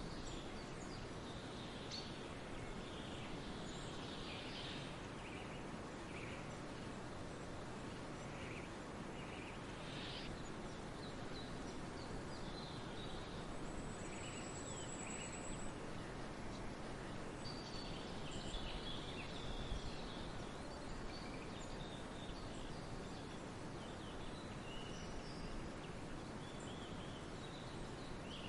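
Forest ambience: many small birds calling and chirping on and off, over a steady background hiss, with one brief high whistled note about halfway through.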